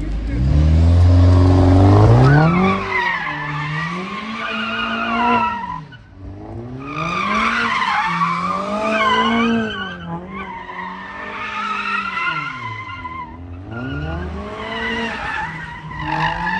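Car engine revving hard. Its pitch climbs steeply at the start, then rises and falls every couple of seconds. Spinning tyres squeal and skid over it throughout, with a brief lull about six seconds in, as the car is driven sideways in a drift display.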